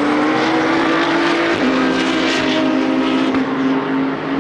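Race car engine under acceleration: its pitch climbs, drops suddenly at a gear upshift about one and a half seconds in, then climbs slowly again.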